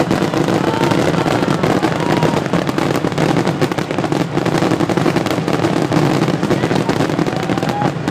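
Large aerial fireworks display going off in a dense, continuous barrage of bangs and crackling bursts, with no breaks between them.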